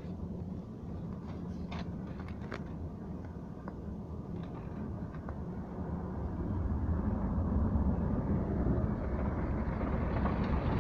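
Road and engine noise of a car heard from inside the cabin while driving, a steady low rumble that grows louder from about halfway through.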